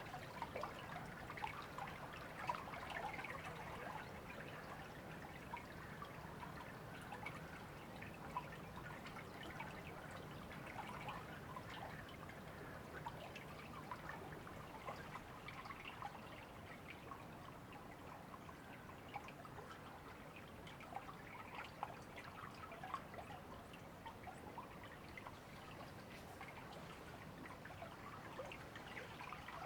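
River water trickling and babbling steadily, a dense stream of small splashes and gurgles.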